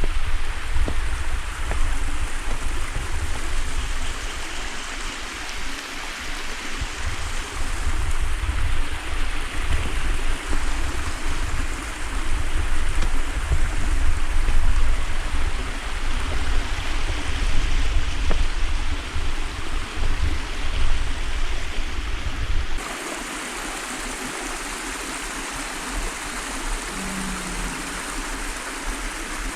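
A creek's running water, a steady rushing hiss. A low, uneven rumble lies under it for most of the time and stops abruptly about three-quarters of the way through, leaving only the even sound of the water.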